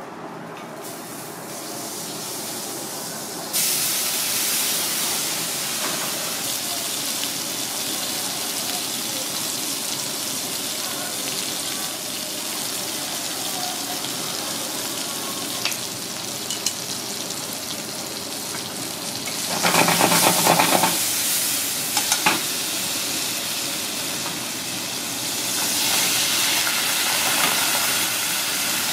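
Diced tomato and rosemary frying in hot oil in a wok: a steady sizzle that jumps louder about three and a half seconds in. About twenty seconds in the sizzle swells for a second or so, followed by a couple of sharp knocks.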